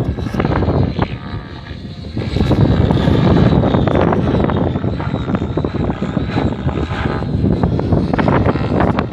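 Helicopter flying, its rotor and engine noise loud and dense; it fades a little about a second in, then swells again.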